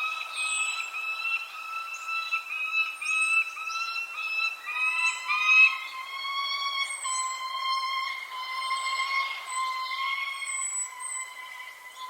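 Birds giving short, high, falling chirps over a long, steady, whistle-like tone that steps down slightly in pitch about five seconds in.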